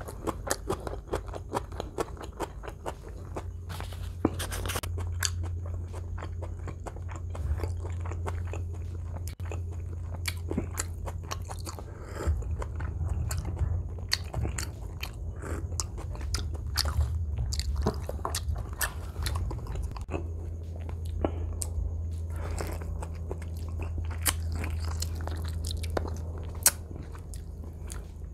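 Close-miked chewing and biting, with frequent crunches and wet mouth clicks, as a man eats roasted chicken asado and crisp side vegetables. A low steady hum lies underneath.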